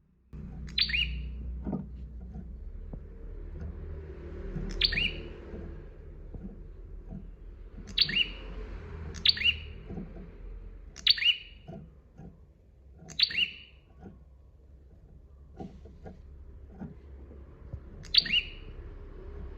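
Prenjak (prinia) calling: seven short, loud, sharp notes, each sweeping quickly downward, given at irregular intervals over a steady low rumble.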